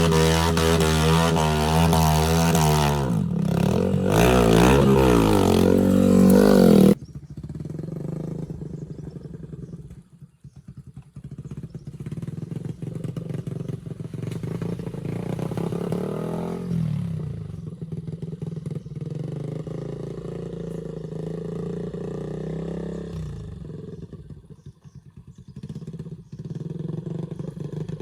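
Off-road motorcycle engine running and revving, loud at first with rising and falling revs. It cuts suddenly about seven seconds in to the engine running more quietly, with a couple of short revs later on.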